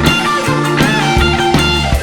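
Rock band playing an instrumental passage: electric guitar lead over drums, with a bent guitar note about a second in.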